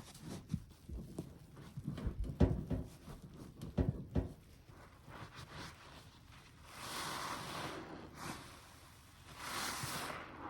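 Wet, soapy sponge squeezed by hand. There are low squelching presses in the first few seconds, then two longer rushing, fizzing swells as foam and water are pressed out, around seven seconds and again near the end.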